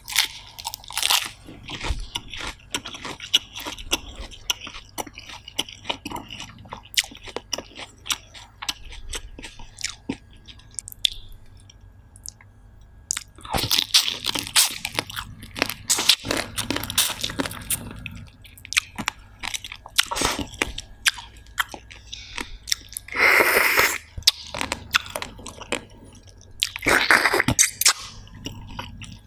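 Close-miked chewing and crunching of a lettuce-wrapped bite of steamed shellfish. The crunching gets louder and denser from about halfway in, with two longer noisy bursts near the end.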